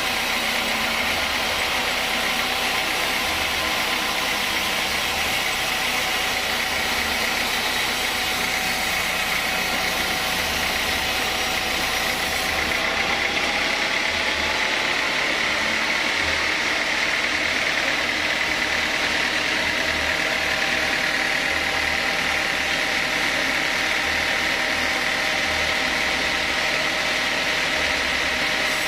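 Sawmill saw machinery running steadily, a continuous mechanical noise with a high whine. About halfway through, the highest hiss drops away while the machine keeps running.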